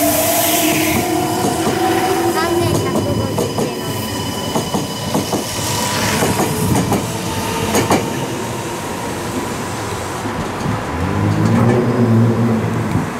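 Meitetsu electric trains running through a station. A motor whine glides at the start, wheels click over the rail joints as the cars pass, and a low pitched hum from another approaching train swells about eleven seconds in.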